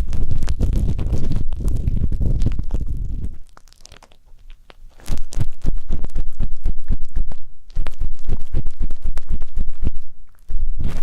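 Ear pick scraping and rubbing close against the microphone, a dense scratchy crackling in three bouts with short pauses about three and a half seconds in and near the end.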